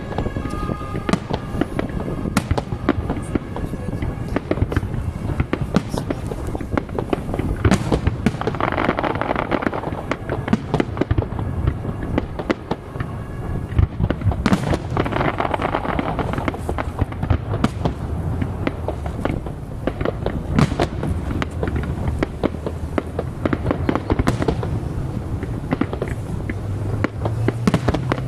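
Aerial fireworks display: a steady stream of bangs and cracks, with two louder spells of dense crackling about eight and fifteen seconds in.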